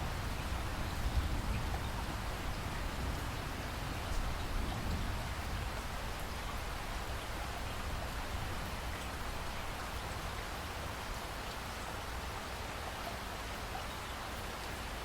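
Heavy rain falling steadily, with a low thunder rumble dying away over the first few seconds.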